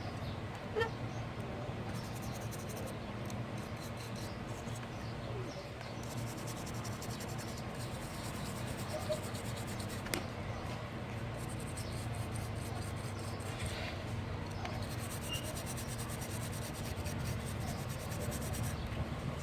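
Steady low electrical hum with a few faint clicks and light scratching of small handling noises.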